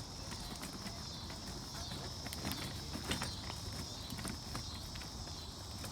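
Footsteps of people walking outdoors, a scatter of irregular light steps and scuffs, over a steady high-pitched background hiss.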